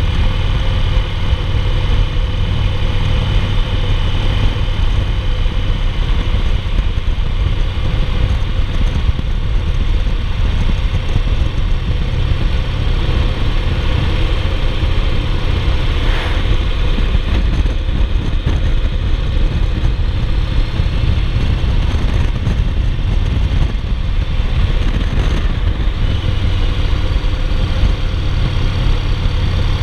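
Yamaha Roadliner's big air-cooled V-twin running steadily at cruising speed, a constant low rumble mixed with wind rushing past.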